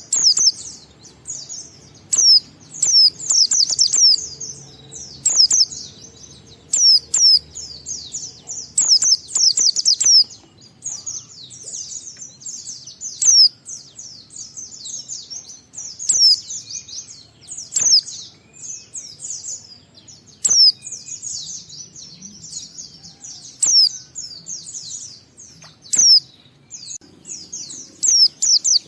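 Pleci (white-eye) singing in the continuous 'ngalas' style: rapid, high twittering warbles in phrases of a second or two, broken by short pauses and punctuated by sharp high notes.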